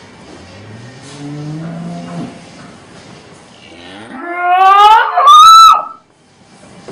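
A cow mooing: first a low call, then a much louder call that climbs steeply in pitch into a high bawl and cuts off suddenly.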